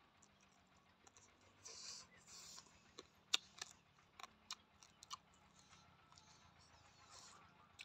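Faint mouth sounds of chewing roasted rat meat, with a string of sharp clicks and crackles in the middle as the meat is pulled apart by hand.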